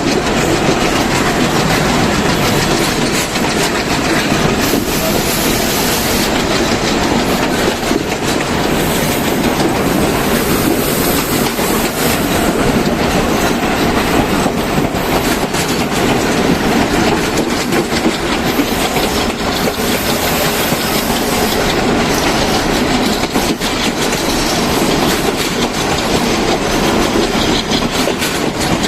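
Train running along the track: a steady loud rumble of wheels on rails with clickety-clack over the rail joints.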